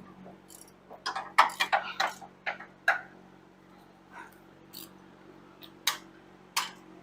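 Hand tools clinking and knocking on metal: a quick run of sharp clicks and clanks, then a few single clicks spaced about a second apart.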